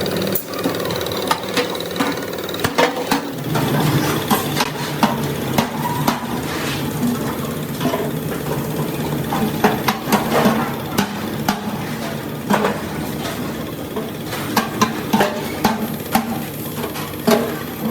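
A small engine running steadily under irregular sharp metallic taps and knocks, like hand-hammering on metal.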